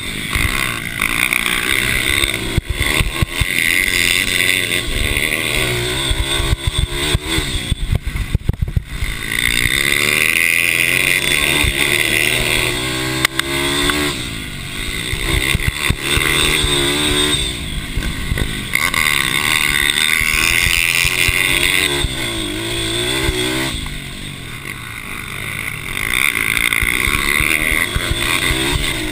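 Several small racing mini bike engines revving hard, their pitch climbing and dropping over and over as the bikes accelerate and back off around the track.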